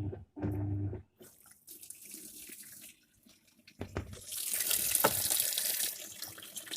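Water running hard from a tap, starting about four seconds in and easing slightly near the end. In the first second a low hum cuts on and off several times.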